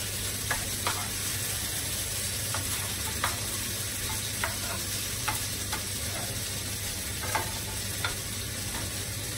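Marinated chicken pieces frying in a pan: a steady sizzling hiss with scattered light clicks and pops, as tongs turn the pieces.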